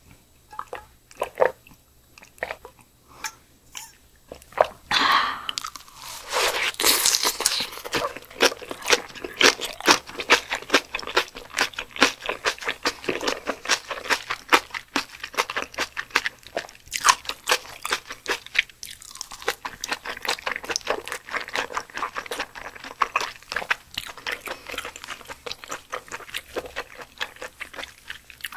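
Close-miked chewing of blanched Pacific spiny lumpsucker: a steady run of wet, chewy mouth sounds with small crunches, a few strokes a second, louder for a few seconds about five seconds in.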